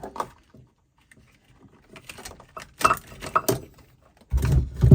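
Light clattering and knocking of hard parts being handled, several sharp clicks in a row, then a louder, longer rattle near the end.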